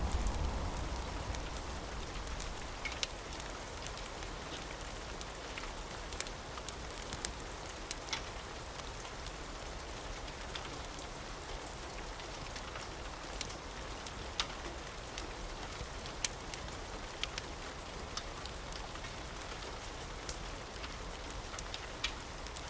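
Steady rain falling, an even hiss, with scattered sharp clicks through it. A low thunder rumble dies away over the first couple of seconds.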